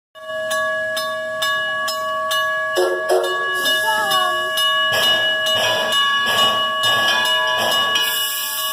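Wigwag crossing signal's bell ringing steadily, about two strikes a second. From about five seconds in, a steam locomotive chuffs as the train gets going, with a hiss of steam near the end.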